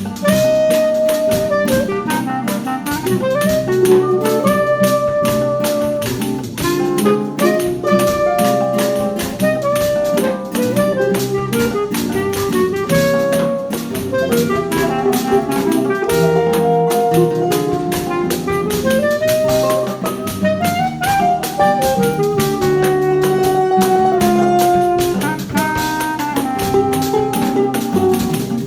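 Choro ensemble playing an instrumental piece. A lead instrument holds long melody notes that rise and fall over a steady, rhythmic accompaniment.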